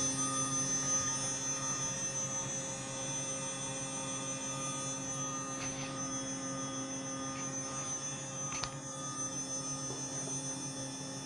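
Spindle of a homemade CNC milling machine, fitted with an 8 mm three-flute aluminium cutter, running at about 8000 rpm: a steady hum with evenly spaced overtones, broken by a couple of short clicks around the middle.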